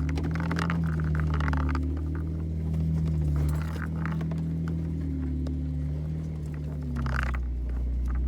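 Jeep engine running at low revs, a steady low drone that wavers slightly in pitch, with a few brief scraping noises over it.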